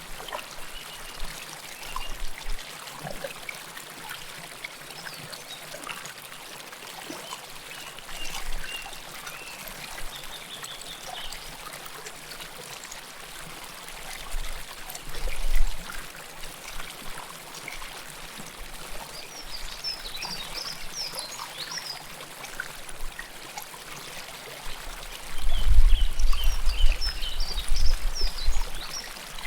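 River water flowing and trickling close to the microphone: a steady rushing babble. Brief high chirps come in now and then, and a low rumble swells near the end.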